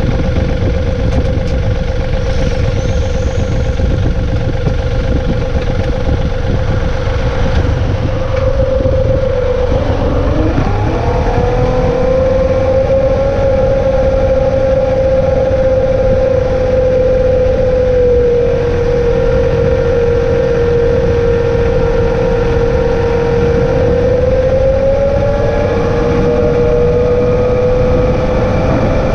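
John Deere 2032R compact tractor's three-cylinder diesel running steadily under load, with a strong whine that drops and recovers in pitch about ten seconds in and shifts again near the end.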